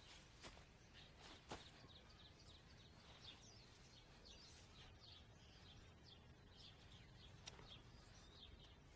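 Faint bird chirping: many short, repeated chirps over a low hiss, with a few soft clicks.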